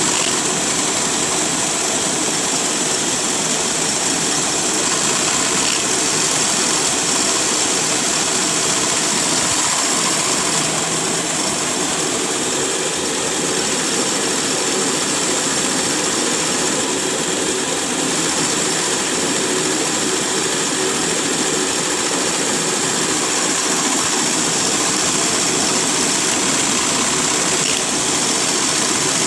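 LEGO pneumatic vacuum engine running steadily, its plastic pistons and valves driven by suction and blown air. It makes a continuous, even mechanical noise with a strong airy hiss on top.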